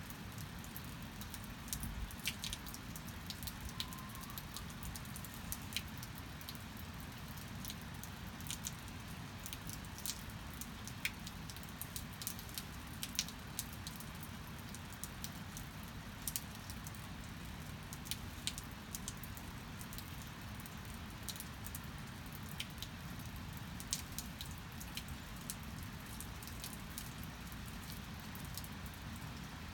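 Steady rain, with many sharp, irregular drops and drips tapping close by.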